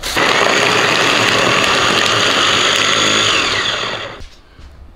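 Electric food chopper with a motor head on a glass bowl running, mincing peeled garlic cloves into paste. It runs steadily for about three and a half seconds, then winds down with a falling whine and stops about four seconds in.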